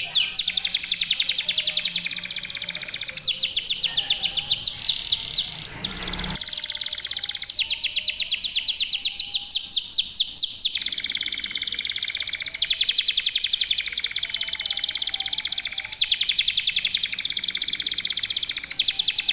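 Domestic canaries (local canaries) singing continuously in long, rapid trills and rolls, several birds at once. About six seconds in there is a brief low rumbling noise under the song.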